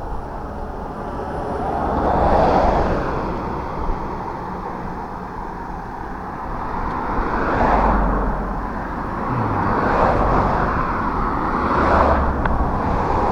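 A car driving on a road: steady engine and tyre noise with a low rumble, swelling and easing off several times.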